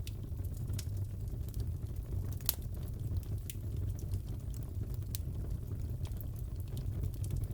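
Wood fire crackling in a fireplace: scattered sharp pops and snaps over a steady low rumble, with the loudest pop about two and a half seconds in.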